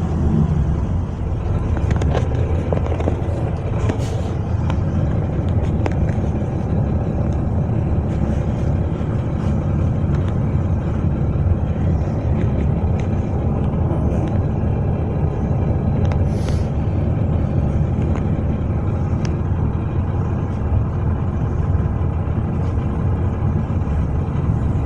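Steady low rumble of a city transit bus driving, heard from inside the passenger cabin, with a few faint rattles.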